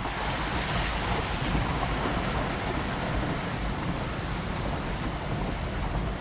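Four-wheel drive vehicle driving along a rough dirt track: a steady rushing, hissing noise over a low engine rumble.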